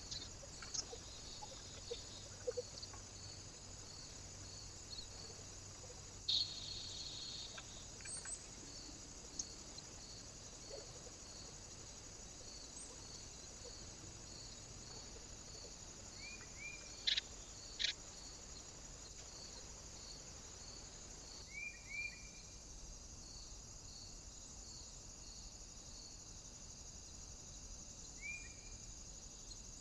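Faint small-bird calls at a feeder: short hooked chirps a few times, over a steady high hiss and a faint high note repeating about once a second. A few sharp clicks stand out, the loudest a pair about two-thirds of the way in.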